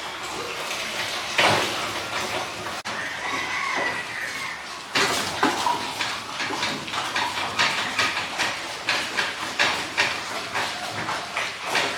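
Pigs calling, with one high drawn-out call about three seconds in. From about five seconds in comes a quick run of knocks and clatters, several a second.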